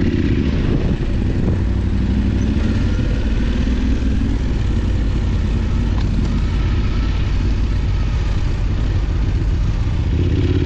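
Adventure motorcycle's parallel-twin engine running steadily while riding, with a steady rushing noise over it.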